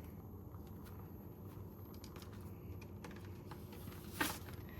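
Paper banknotes and a cash envelope being handled: faint, crisp paper rustles and small ticks, with one louder rustle about four seconds in.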